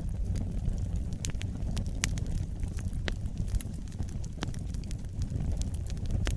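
Wood fire burning: a steady low rumble of flames with frequent sharp crackles and pops from the burning wood, several a second.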